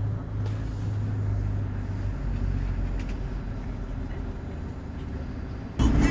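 Steady engine and road noise inside a moving vehicle, with a low hum that fades about two seconds in. Near the end, loud music cuts in suddenly.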